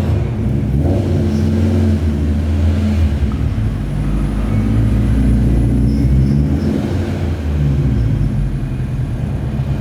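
A car engine running with a steady low drone whose pitch shifts slightly up and down.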